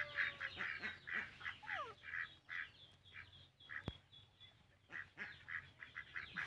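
Birds calling: short, harsh calls repeated several times a second, with a lull in the middle and a single sharp click about four seconds in.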